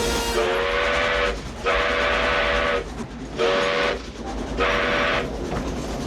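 Steam locomotive whistle sounding four blasts, two longer and then two shorter, each a chord of several tones, over the steady running noise of the train.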